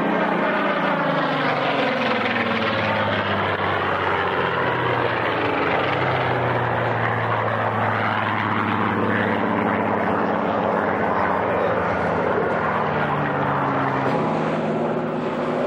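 Propeller aircraft flying past at a display. Its engine note slides down in pitch and then shifts up and down again as it passes and turns.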